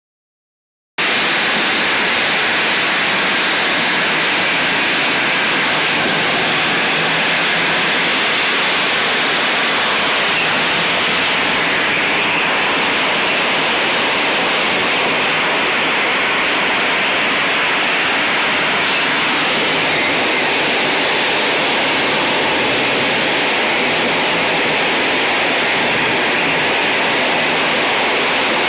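Steady rushing wind and road noise from a moving tow truck, heard from inside the cab. It starts abruptly about a second in and holds level, with no distinct engine note.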